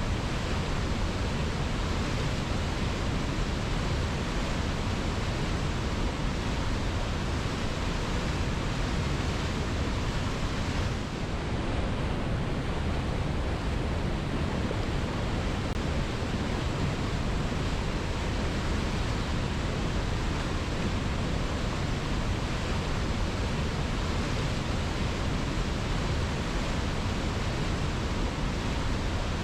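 Waterfall rushing steadily: a dense, even wash of falling water, with a brief slight dip about eleven seconds in.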